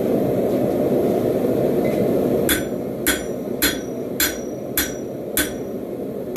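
Hand hammer striking a hot railroad spike on a Hay Budden anvil: six even, ringing blows a little over half a second apart, starting about two and a half seconds in. Under them runs a steady low rushing noise.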